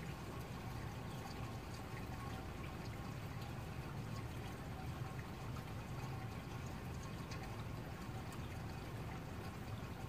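Steady rain falling, with many small drop ticks over an even hiss and a low steady rumble underneath.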